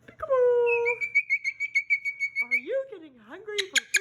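Moluccan cockatoo vocalizing: a falling call, then a high, rapidly pulsed whistle held at one pitch for about two seconds, then lower wavering voice-like sounds with a few sharp clicks near the end.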